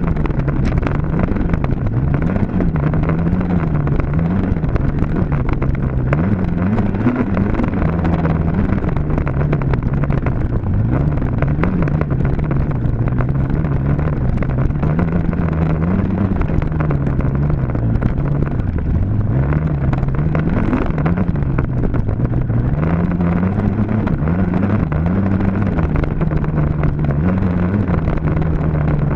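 Dirt bike engine running hard, its pitch rising and falling every second or two as the throttle is opened and closed and it shifts through the gears.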